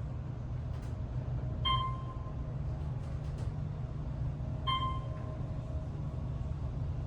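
Elevator car travelling between floors with a steady low hum, and a short electronic floor-passing chime that sounds twice, about three seconds apart.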